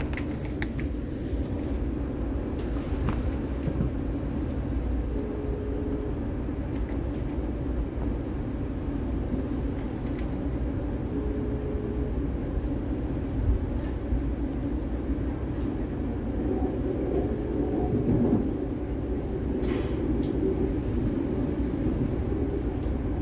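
Cabin noise inside a moving regional train: a steady low rumble from the train running along the track, with a short faint tone twice.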